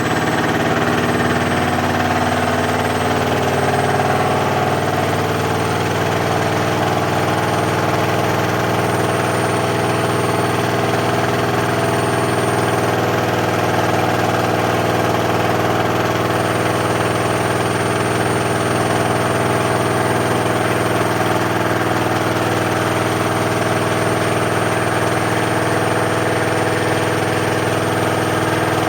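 Washing machine on its spin cycle: motor and drum running fast with a steady hum and a high whine. Its tones shift over the first several seconds, then hold steady.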